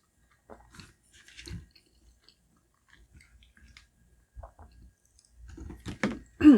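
Close-miked chewing of a shrimp dumpling: soft, wet, scattered mouth sounds. Near the end comes a brief, louder voiced sound that falls in pitch.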